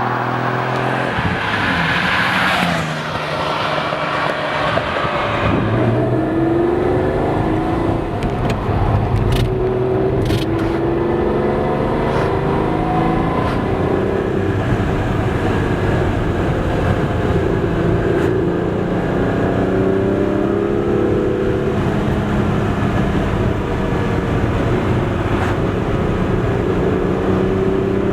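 Ferrari 512 BB's flat-12 engine running through aftermarket Quicksilver headers and exhaust on a drive, its pitch climbing and dropping back several times as it accelerates and eases off.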